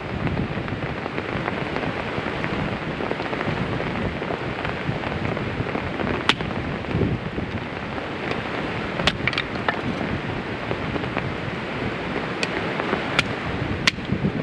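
Heavy rain pattering steadily on an umbrella overhead, with a handful of sharp clicks of larger drops striking it in the second half.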